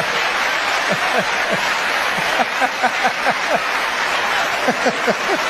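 Audience clapping in a steady patter, with short bursts of laughter a couple of seconds in and again near the end.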